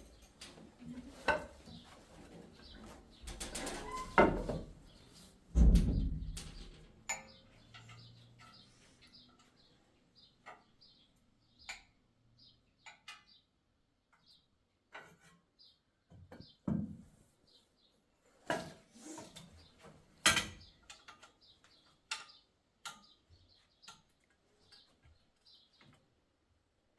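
Scattered knocks and clatter of objects being handled, with two heavy thumps a few seconds in, and brief high chirps of small birds between them.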